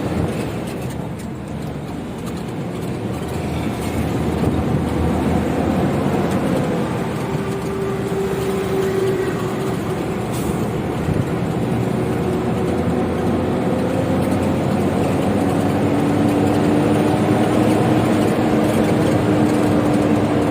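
Isuzu FTR truck's 6HK1 six-cylinder diesel engine pulling the truck on the road, running on a biodiesel made from used cooking oil. It is a steady rumble with road noise, and the engine note rises slowly and grows louder as the truck gathers speed.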